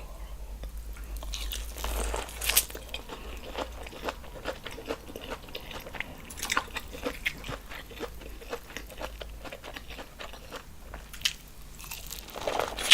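Close-miked eating sounds: biting and chewing seafood boil food in sauce, with many short sharp clicks and wet mouth noises and a louder burst near the end.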